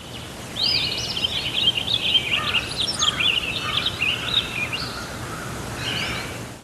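A small bird singing a quick, warbling run of high chirps for about four seconds, with a short burst again near the end, over a steady outdoor rushing noise.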